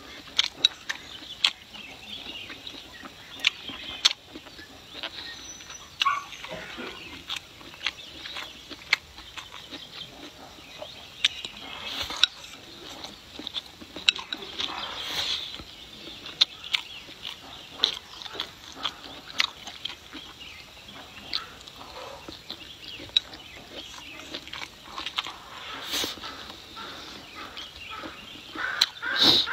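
A person chewing a mouthful of food close to the microphone, with many small wet mouth clicks and smacks.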